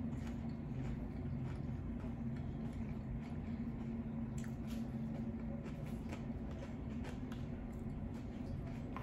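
Close-miked chewing of a crunchy hard-shell taco: scattered crunches and wet mouth clicks, over a steady low hum.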